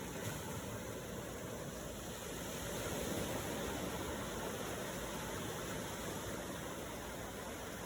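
Steady rush of ocean waves and surf, an even wash of noise that swells gently about three seconds in.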